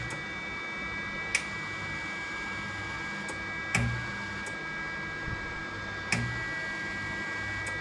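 MIG welder trigger being pulled in short bursts, the wire feed motor running briefly about every two and a half seconds with a click at each pull, over a steady high hum; the wire is feeding again after the welder would not feed.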